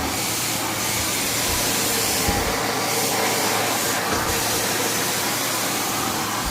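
Vacuum cleaner running with a steady rushing noise.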